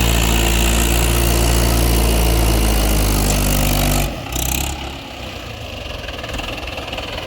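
Heavy diesel machinery engine running steadily at a constant speed, which stops abruptly about four seconds in, leaving a quieter, rougher engine running.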